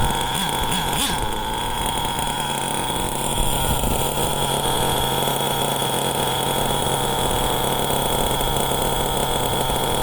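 JL MAX .28 nitro engine of a Traxxas T-Maxx RC truck idling steadily at a high, unchanging pitch.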